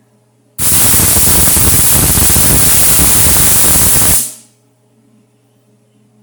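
Electric arc welder laying a tack weld on 1/4-inch steel channel: a steady crackling hiss of the arc for about three and a half seconds, starting about half a second in and cutting off sharply.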